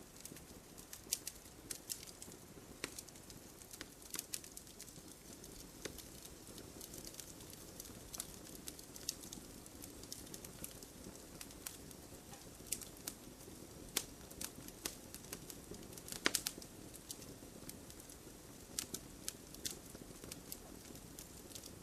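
Wood fire crackling in a fireplace: irregular sharp pops and snaps over a low steady hiss, with a couple of louder pops past the middle.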